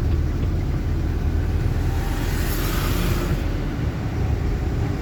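Code 10 truck's engine running steadily under way in third gear, heard from inside the cab as a low rumble. A brief hiss rises and fades about two to three seconds in.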